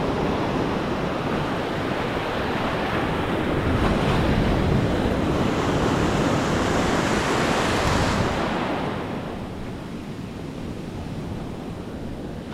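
Atlantic surf breaking and washing up the beach, a wave swelling to its loudest about halfway through and then easing off, with wind buffeting the microphone.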